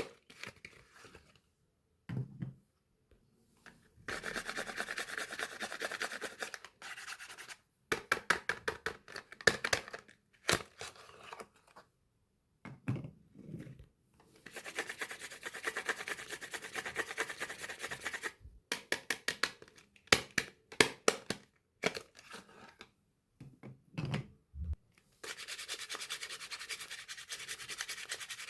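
Soap bars being unpacked by hand: close-up rubbing and scratching of the wrappers and packaging in stretches of a few seconds, with quick runs of sharp taps and clicks and short silent gaps between them.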